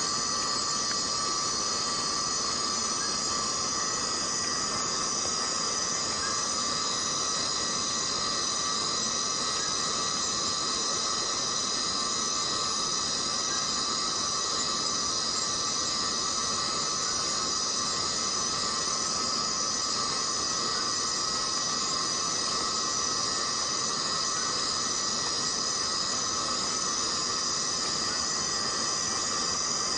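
Chorus of cicadas buzzing: a steady, unbroken high-pitched drone of several layered pitches.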